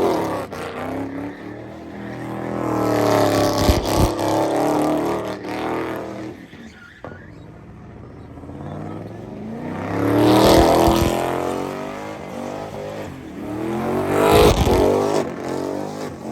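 Cars accelerating hard past one after another: three loud passes with engines revving up and down, one around four seconds in, one about ten seconds in and one near the end.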